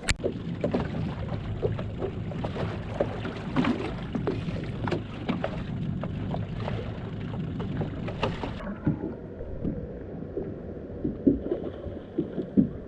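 Small fishing boat moving at slow trolling speed: a motor runs low and steady under water noise, with many small knocks. About eight and a half seconds in, the sound drops and thins.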